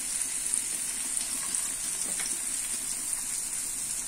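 Food sizzling steadily as it fries in oil in a wok, with a few faint ticks.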